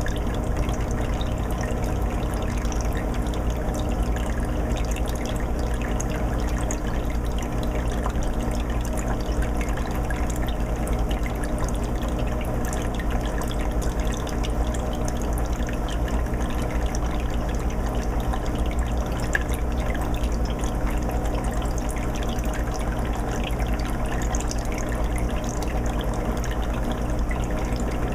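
Aquarium filter running water steadily into a 20-gallon fish tank, a continuous trickling and splashing with a steady low hum underneath.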